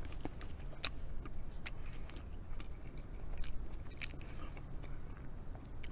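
A person chewing a mouthful of heavily scorched rice, with irregular small crisp clicks and crunches.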